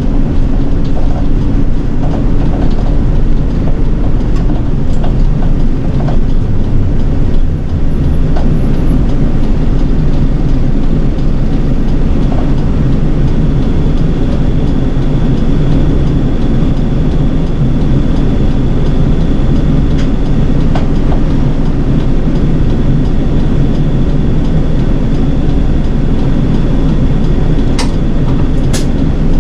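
City bus driving, heard from inside: steady engine and road rumble with rattles and scattered clicks. A thin high whine comes in about halfway and runs until near the end, and there are a couple of sharp clicks near the end.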